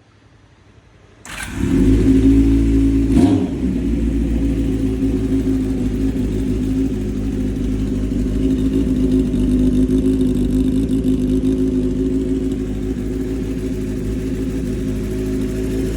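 Honda CBX400F's air-cooled inline four-cylinder engine starting up about a second in, with a brief rise a couple of seconds later, then running steadily at idle.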